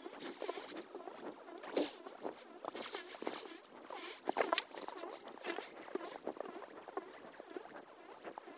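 Close, irregular scratchy crackling and pattering, with louder rustling scrapes about two seconds in and again near the middle.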